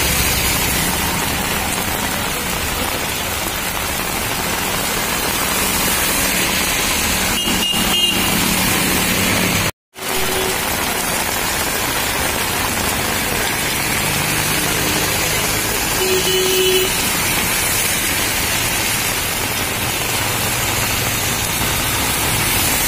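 Heavy rain pouring onto a flooded street, with motor traffic running through the water. The sound drops out for a moment about ten seconds in.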